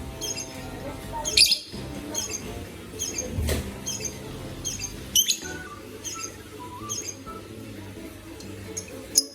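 Young pet bird chirping repeatedly in short high peeps, about two a second, with a few sharp knocks or clicks.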